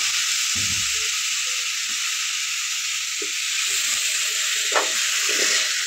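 Onion-tomato masala frying in oil in an aluminium kadai, a steady sizzle as button mushrooms are stirred in, with a few soft scrapes and knocks of a steel spatula against the pan.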